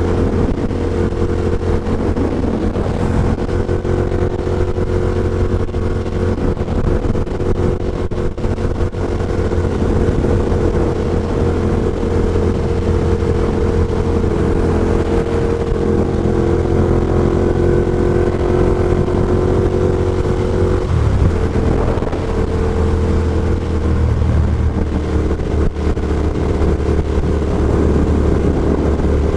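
Ducati Diavel's V-twin engine with an Austin Racing GP2 aftermarket exhaust running at a steady cruise, heard from a mic inside the rider's helmet with wind noise. The engine note shifts briefly about two-thirds of the way through, then settles again.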